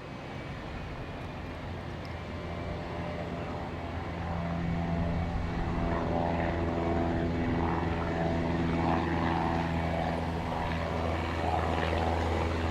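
Propeller aircraft engine running with a steady, even hum that grows louder over the first several seconds as the plane comes closer, then holds.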